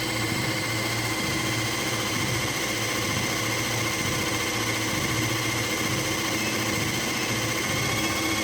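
Treadmill running with a toy RC car driving on its belt: a steady mechanical whir and hum, with small electric motors spinning.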